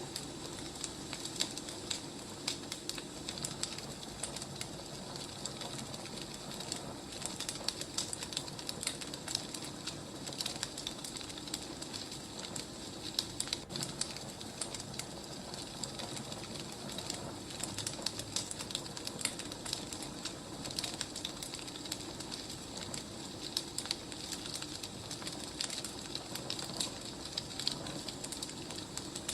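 Wood fire crackling: a dense, irregular scatter of small sharp pops and snaps over a steady low hiss.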